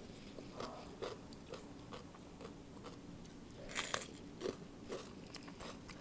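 Close-up chewing with scattered soft crunches, and a loud crisp crunch about four seconds in as a raw vegetable is bitten, followed by a second crunch.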